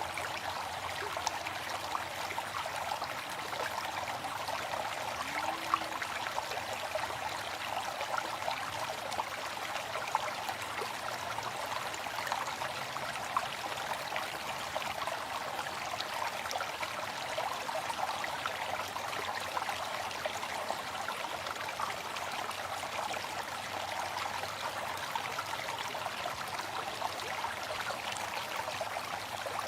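Waterfall: water falling and splashing in a steady, even rush, with small splashes flecking through it.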